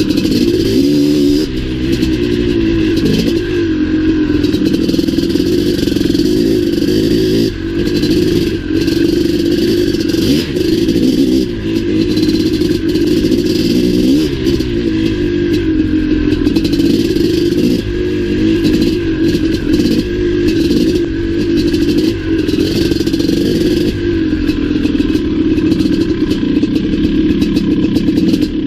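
Maico 700 single-cylinder two-stroke dirt bike engine running hard on a trail, its revs rising and falling through the ride. Short knocks and rattles from the bike run through it.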